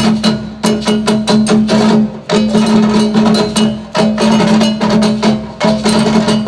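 Live percussion ensemble playing a fast, dense drum rhythm of sharp strikes over a steady low tone, with brief breaks in the pattern about two and four seconds in.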